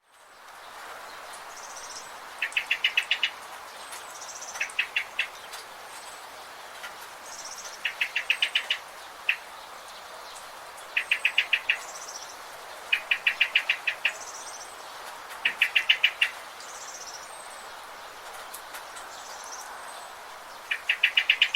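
Birds singing: one bird repeats a short, fast series of six to eight loud notes every two to three seconds, with fainter high chirps between. A steady background hiss of forest ambience runs underneath.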